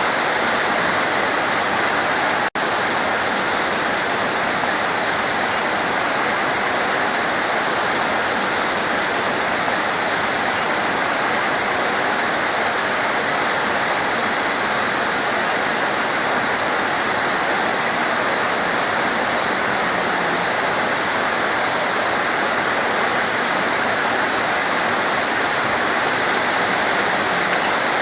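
Torrential rain falling as a steady, even hiss. The sound cuts out for an instant about two and a half seconds in.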